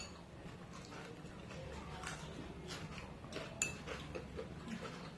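Quiet eating sounds: a spoon tapping and scraping in a bowl, with one clear ringing clink of the spoon against the bowl about three and a half seconds in.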